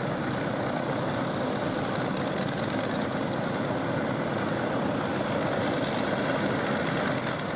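Aircraft engine running steadily, a dense even rushing noise with no change in pitch, cut off abruptly at the end.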